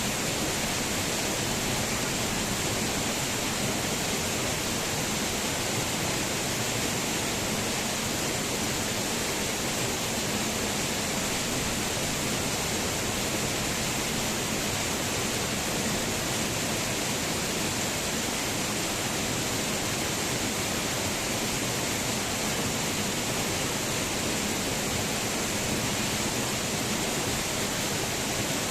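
Waterfall: a steady, unbroken rush of falling water, with a strong hiss in the highs.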